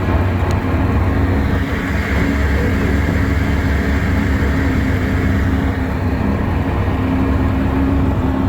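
Twin two-stroke outboard jet motors on a jon boat running steadily, a continuous engine hum with no change in pitch.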